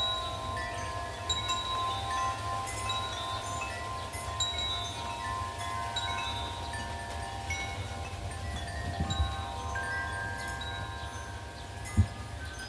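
Wind chimes ringing continuously in gusty wind, many overlapping tones struck and fading, over a steady low rumble of wind on the microphone. A single short low thump near the end.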